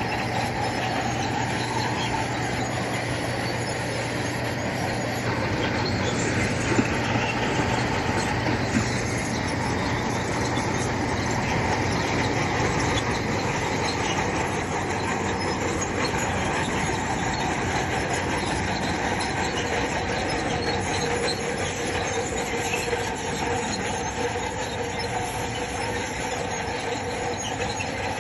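Crawler bulldozer working: its diesel engine running under the steady squeal and clank of its steel tracks, with a couple of sharp knocks about a quarter of the way in.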